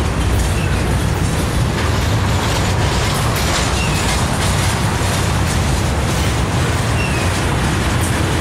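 Manifest freight train's cars, mostly gondolas, rolling past close by: a steady rumble of steel wheels on the rails.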